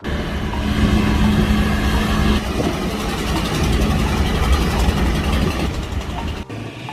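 Boat engine running steadily with a heavy low rumble and a steady hum, turning rougher and noisier after about two seconds; the sound drops off abruptly near the end.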